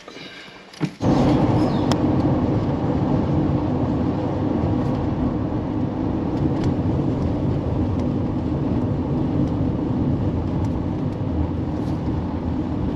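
Car on the move: steady engine and road rumble, which comes in suddenly about a second in.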